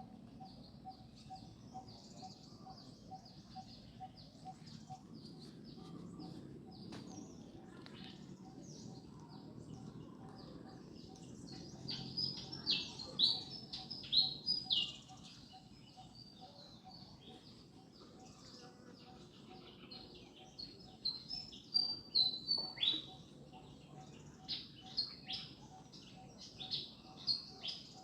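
Birds chirping: a steady run of short, high chirps, many sliding down in pitch, with louder flurries of quick chirps about halfway through and again a few seconds later. A faint, evenly pulsing tone runs underneath.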